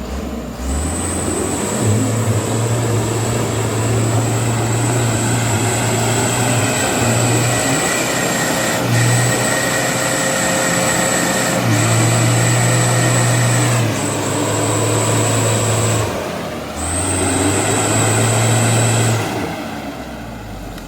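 Mitsubishi Canter HD truck's diesel engine running hard under a heavy load in mud, held at high revs with a steady high whine over it. The throttle eases off briefly a few times, most clearly about three-quarters of the way through, and the revs drop away near the end.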